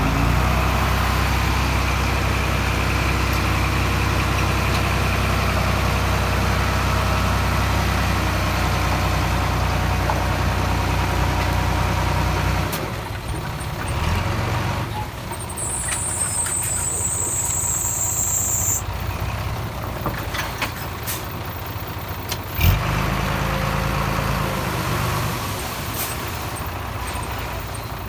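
Diesel engine of heavy earthmoving machinery running steadily, then dropping and changing about halfway through. A high thin whine is heard for about three seconds, a sharp knock comes later, and the engine returns after the knock.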